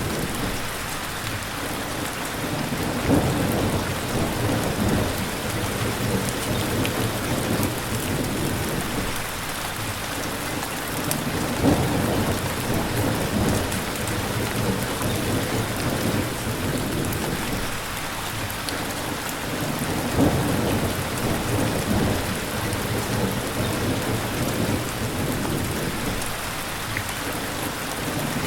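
Steady rain falling hard, with low thunder rumbles swelling up a few times, about three seconds, twelve seconds and twenty seconds in.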